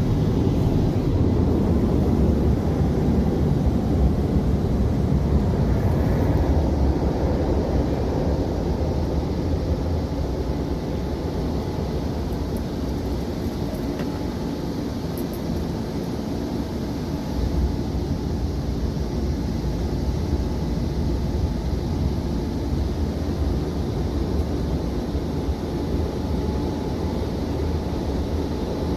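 Automatic car wash machinery running over the car, heard from inside the cabin: a steady low rumble and rush that eases a little about a third of the way in.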